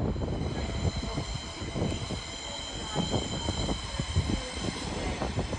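Train moving along the track with a steady high-pitched wheel squeal of several tones at once, over a low irregular rumble and knocking from the wheels.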